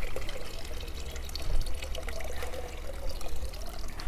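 Water pouring and trickling.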